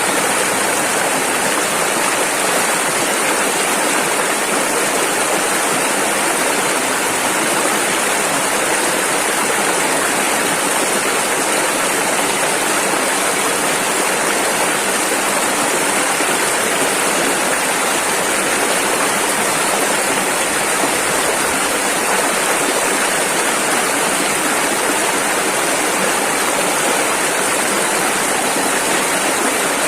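Rushing river: fast water over rapids making a steady, unbroken rush.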